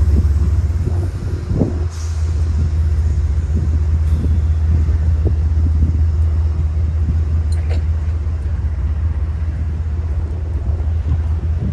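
A steady, loud low rumble of a running engine, with a few faint clicks and knocks over it.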